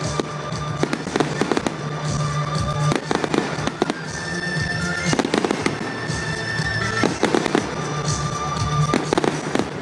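Fireworks display: repeated bangs and crackling bursts from the shells, irregular and frequent, over music with long held notes.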